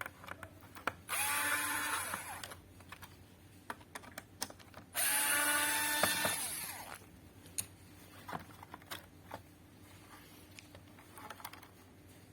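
Small electric screwdriver running twice, about a second in and again about five seconds in, each run lasting one to two seconds, as screws are backed out of a circuit board. Light clicks and knocks of handling between and after the runs.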